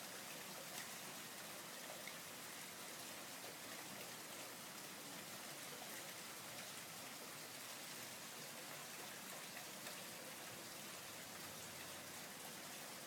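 Heavy rain pouring steadily, a dense even hiss with scattered faint ticks of individual drops.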